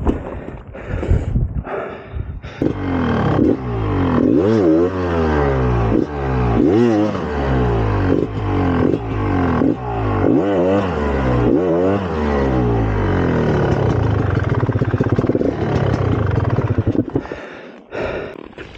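Single-cylinder two-stroke engine of a 2004 GasGas EC300 dirt bike, revving up and down again and again as it is ridden, with knocks and clatter in the first couple of seconds. The engine note falls away near the end.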